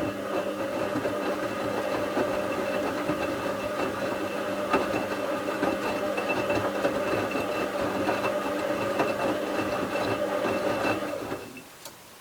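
Bauknecht WA 7778 W washing machine's brushed motor turning the drum through one tumbling stroke of the wash: a steady motor hum with rattling from the laundry and drum, stopping about eleven seconds in. The owner reports the machine's drum bearing was already starting to fail at this point.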